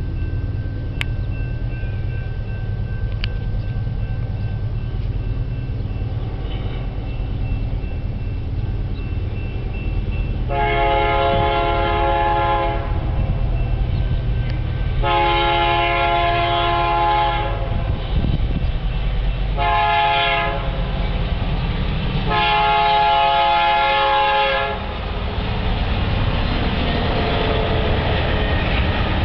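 Diesel freight locomotive air horn sounding a chord in four blasts, long, long, short, long: the standard grade-crossing warning signal. Beneath it runs the steady low rumble of the approaching train's diesel engines, with the noise of the train growing near the end.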